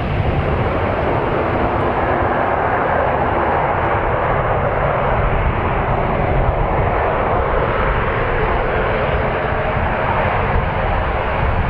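Jet airliner engines running, a loud, steady noise that holds even throughout.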